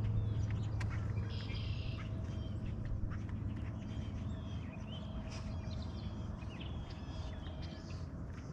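Several birds chirping and calling in short, quick notes over a low steady hum that eases off after the first second.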